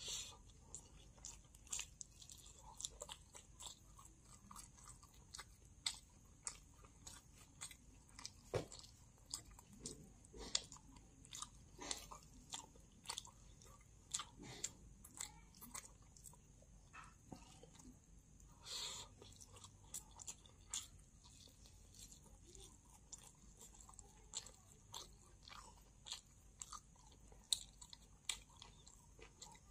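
Close-miked chewing and biting of food, with many short irregular mouth clicks and small crunches.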